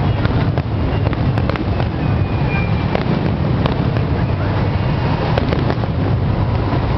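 Fireworks in a dense finale barrage: a continuous low rumble of bursts with many sharp cracks throughout and a few short whistles.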